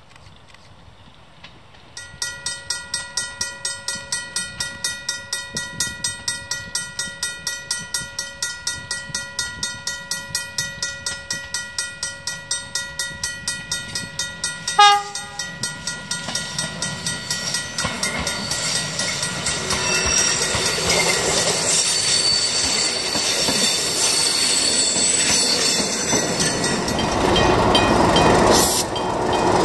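A level-crossing warning bell rings in rapid pulses, a little over three a second. About halfway through, the English Electric electric multiple unit Dm 27 gives a short horn blast, the loudest sound. The train's running noise then grows louder as it approaches.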